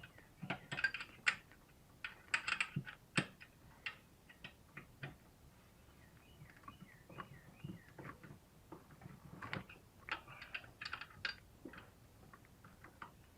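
Irregular metal clicks and clinks of a wrench being fished onto a hidden, hard-to-reach bolt by feel, the tool not yet catching. The clicks come in clusters near the start and again about two-thirds of the way through.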